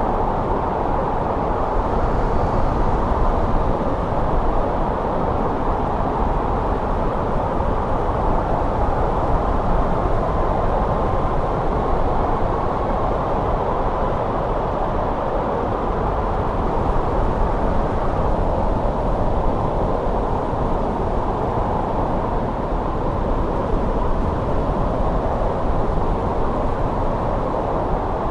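Snowstorm wind ambience: a steady, dull rushing noise that stays even throughout, with no gusts or separate sounds standing out.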